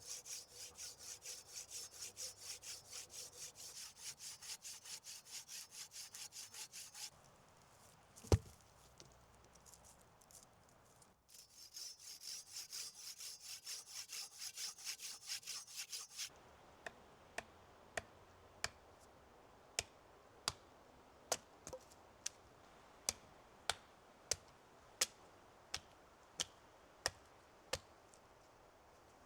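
Hand saw cutting through wood in quick, even strokes, about three a second, in two spells with a single knock between them. Then a run of sharp, evenly spaced taps, about one every half second or so.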